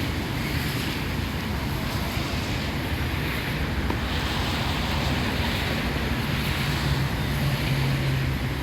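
Traffic on a wet street: a steady hiss of tyres on wet road, with a vehicle's low engine hum getting louder about six seconds in and fading near the end.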